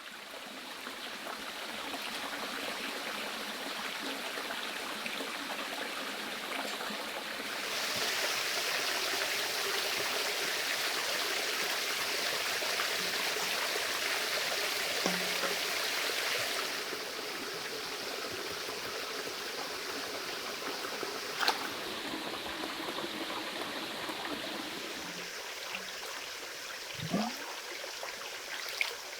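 Stream water running in a steady rush, louder and brighter for several seconds in the middle. A single sharp knock cuts through about two-thirds of the way in.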